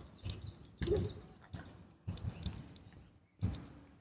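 A small bird chirping in quick runs of high notes, once early on and again near the end, over the uneven thuds of footsteps on a stony dirt path.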